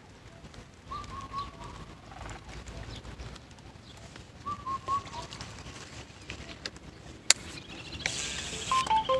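A bird calls a short three-note phrase twice, about a second in and again midway, over a quiet outdoor background. Near the end there is a sharp click, then a louder rustling stretch with a fast run of ticks.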